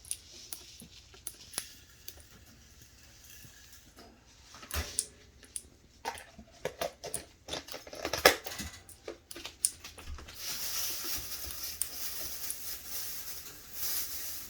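A pet bird eating spaghetti: scattered small clicks and taps of its beak and the food, busiest in the middle, then a few seconds of soft, steady rustling toward the end.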